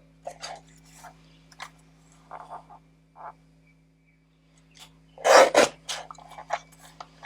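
Paper and card being handled at a craft desk: short rustles and scrapes, with one louder, longer rasp about five seconds in.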